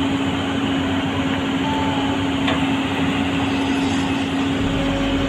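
Steady mechanical running noise with a single held tone, ending abruptly just as the sound breaks off.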